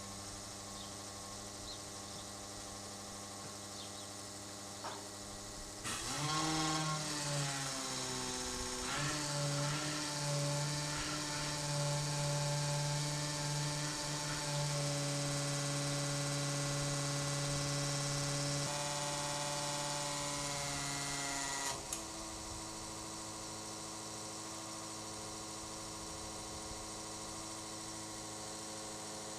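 Electric diesel transfer pump running for about sixteen seconds: it starts with a sudden jump in level, its whine drops in pitch as it loads, then holds steady and cuts off sharply. A steady low hum, like an idling engine, runs underneath.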